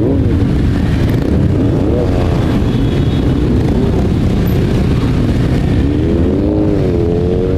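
Motorcycle engines running and revving, their pitch rising and falling again and again over a steady rumble.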